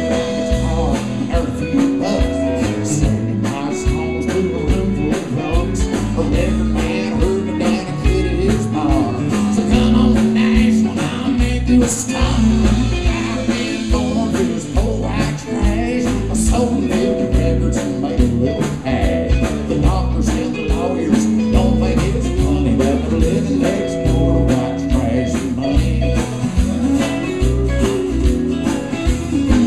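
Country band playing live: electric guitar, bass and drum kit with sung vocals.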